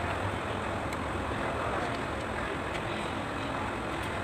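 Kubota D905 three-cylinder diesel engine running steadily.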